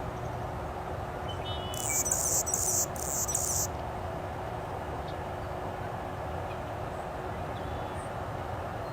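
Forest ambience: a steady hiss with two high-pitched buzzing trills about two seconds in, the first about a second long and a shorter one right after, preceded by a few faint high whistled notes.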